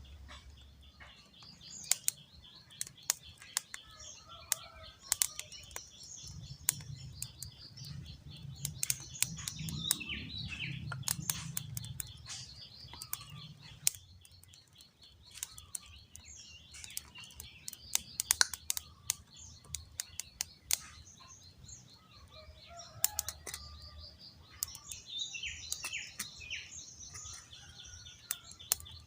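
Birds chirping outdoors over a steady high hum, with sharp clicks scattered throughout and a low rumble for several seconds near the start.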